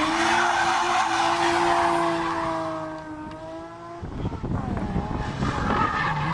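Historic rally car engine at high revs flat out past the roadside, its pitch held high and easing slightly. It cuts off suddenly about four seconds in, giving way to rough rumbling noise, and a second engine comes in near the end.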